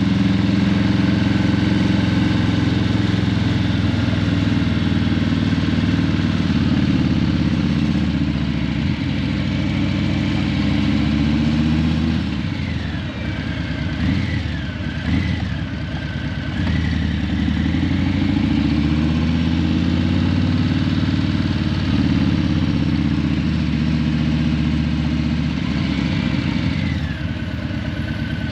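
Harley-Davidson Breakout 117's Milwaukee-Eight 117 V-twin running through Vance & Hines Eliminator 300 slip-on mufflers while riding, its pitch climbing under throttle several times and easing off for a few seconds around the middle.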